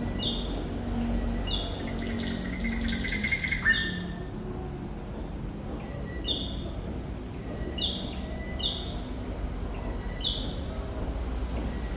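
Thrush nightingale singing in full song. A loud, fast run of rapid notes comes about two seconds in, followed by short, falling whistled notes repeated about once a second.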